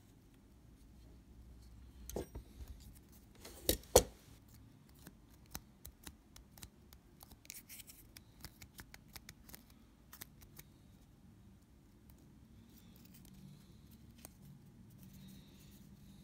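Small hand tools clicking and tapping during work on a Leica II shutter: a few sharp clicks about two seconds in, two louder clicks just before four seconds, then a run of light ticks and small scrapes.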